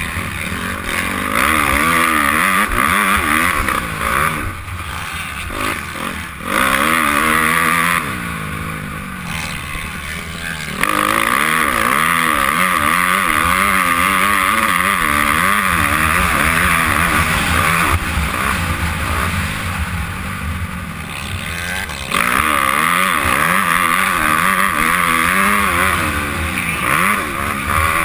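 Honda CRF250R's four-stroke single-cylinder motocross engine, heard from the rider's helmet, revving up and down over and over as the throttle and gears change. Louder stretches cut in and drop away suddenly several times.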